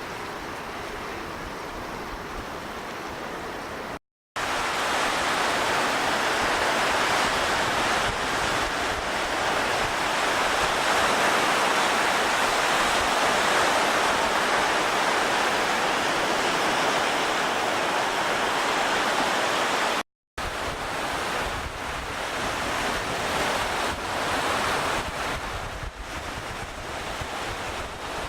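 Steady rush of wind and waves in the wake of a typhoon, with no bird calls. It cuts out completely twice, briefly, about four and twenty seconds in, and is loudest between the two breaks.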